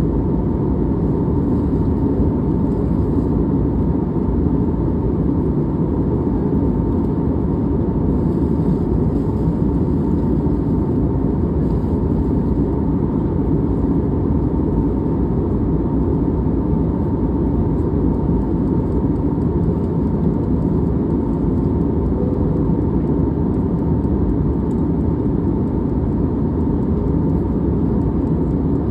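Airliner cabin noise in flight: a steady, even rush of engine and airflow noise, mostly low in pitch, with a faint steady whine underneath.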